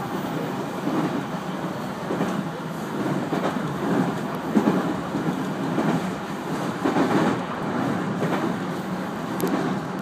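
JR 211 series electric train running along the track, heard from inside the leading car: a steady rumble of wheels on rail that swells and fades, with occasional clicks as the wheels pass over rail joints.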